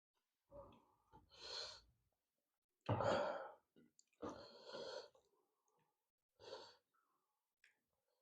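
Close-up mouth sounds of a person eating curry and rice, with audible breaths, in about five short bursts; the loudest is about three seconds in.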